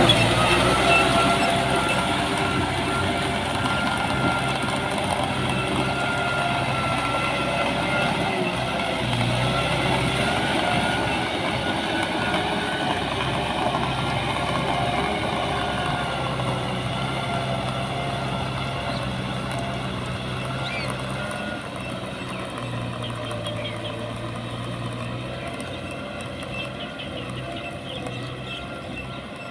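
Diesel engine of farm or earthmoving machinery running steadily, its pitch wavering slightly, gradually getting quieter.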